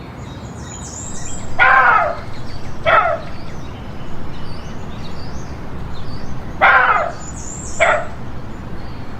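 Bird calls: a longer call followed by a shorter one, the pair heard twice about five seconds apart. Faint high chirping and a steady outdoor background hiss run underneath.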